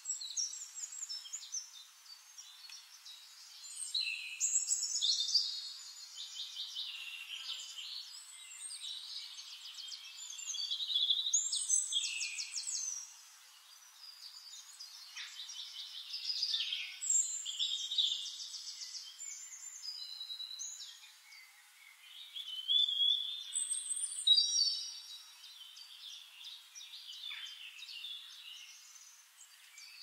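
Several songbirds singing and chirping over one another: quick trills, rapidly repeated notes and short whistles, coming in bouts every few seconds. The sound is thin and high, with nothing low beneath it.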